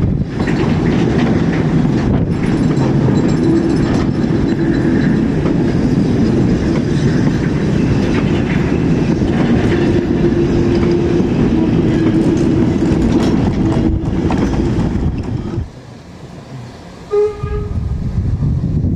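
A steam-hauled train running past at close range, its wheels clattering over the rail joints with a loud, steady rumble. About three-quarters of the way through the noise suddenly drops away for a second or so, a short pitched note sounds, and then the loud train noise returns.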